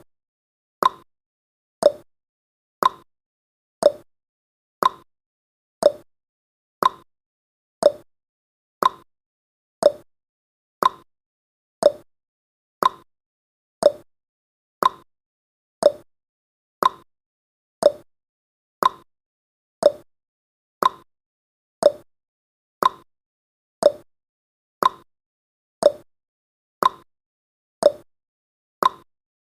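Countdown timer's tick sound effect: a short, sharp tick repeating once every second, evenly and without change.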